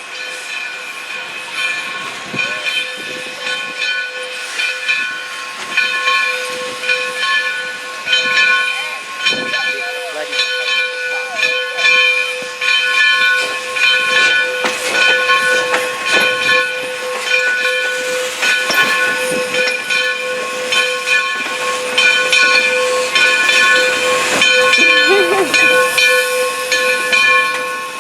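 Steam locomotive venting steam: a loud, steady hiss carrying several held whistling tones that do not change pitch.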